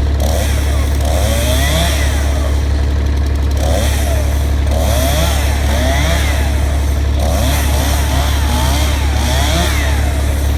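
Chainsaw cutting up a fallen tree branch, its engine revving up and falling back again and again as it bites through the wood. A steady low hum runs underneath.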